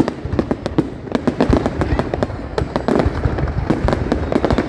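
Fireworks display: a dense, continuous barrage of bangs and crackling bursts, many a second.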